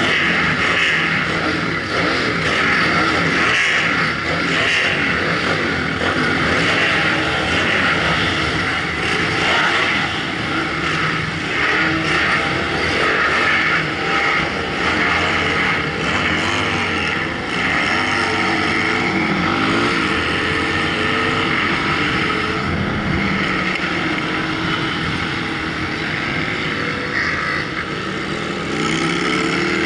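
Motorcycle engines running, heard close from the rider's own supermoto with other bikes nearby. In the second half the engine revs rise and fall repeatedly as it is ridden through the corners.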